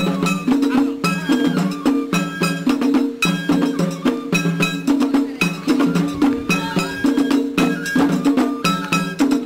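Japanese festival music (matsuri-bayashi): a repeating rhythm of struck percussion with a clanging metal hand gong over sustained pitched tones.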